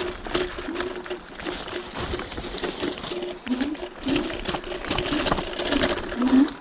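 Electric hyperscooter's motor whining, its pitch rising and falling again and again with the throttle. Over it are many quick rattles and knocks from the scooter bouncing along a rough dirt trail.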